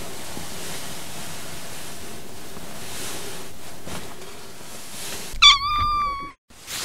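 A steady hiss, then about five seconds in a single drawn-out cat meow. The meow drops in pitch at its start, holds level for about a second, and cuts off abruptly.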